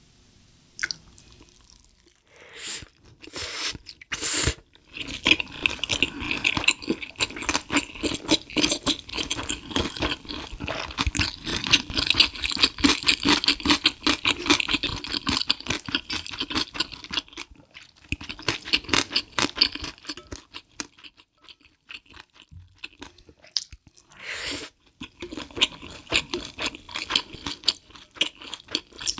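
Close-miked crunchy chewing of food in long, dense runs of fine crackling bites, with a few short louder noises near the start and again near the end.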